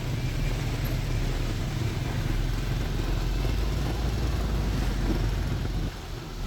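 Double-decker tour bus running with a steady low rumble, which drops off abruptly about six seconds in.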